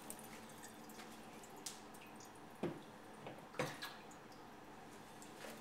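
Water dripping after a tap is shut off, with a couple of small sharp knocks in the middle.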